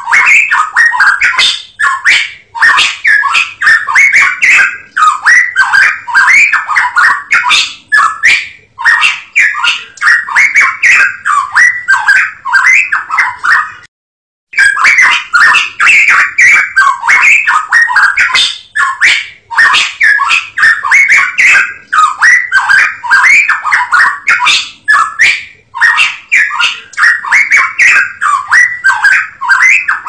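Cucak emas Papua song: a loud, fast chatter of rapid notes run together without pause. It breaks off once, briefly, about halfway through, then starts again.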